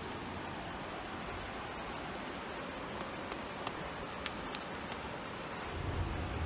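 Small wood fire crackling, with scattered sharp pops over a steady hiss, and a low bump near the end.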